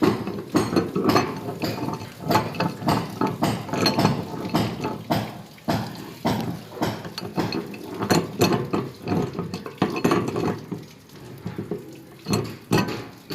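Repeated metallic clinks and knocks of plumbing work on a gas geyser's fittings, with water running and dripping.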